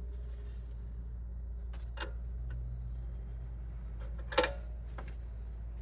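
A few light clicks and knocks from tools being handled on a bench, with one sharp click about four seconds in, over a steady low hum.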